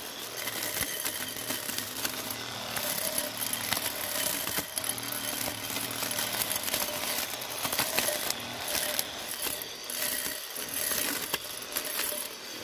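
Homemade grass trimmer driven by a 775 DC motor running, a steady whine that wavers in pitch, with many sharp clicks and rattles from the spinning cutter striking grass.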